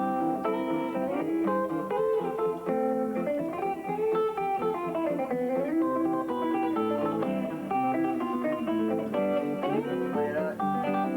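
Guitar picked fingerstyle in a bluesy thumbpicking manner, a steady run of plucked notes with a note sliding up and back down in pitch in the middle and another slide near the end.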